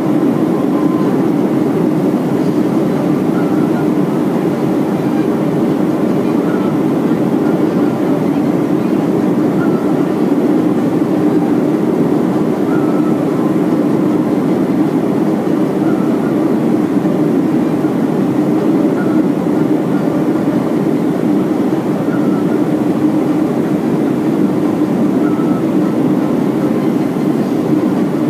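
Steady cabin noise inside a Boeing 737-400 airliner in flight on approach: the even rumble of the jet engines and airflow, unchanging throughout.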